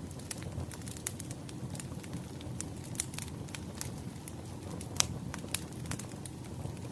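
Wood fire crackling: irregular sharp pops and snaps over a low steady rumble, with one louder pop about five seconds in.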